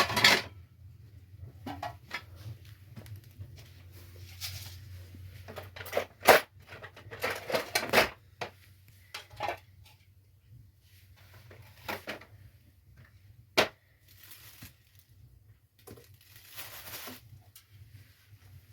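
Irregular knocks, cracks and rustles of things being handled, with a few sharp clicks and several longer scraping rustles.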